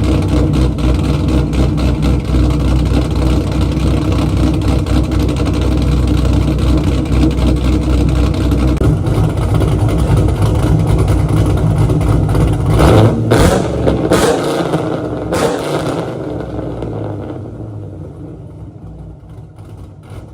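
Cammed 1999 Chevrolet Camaro engine idling after a cold start, then revved in three short blips about 13 to 15 seconds in. Over the last few seconds the sound fades away.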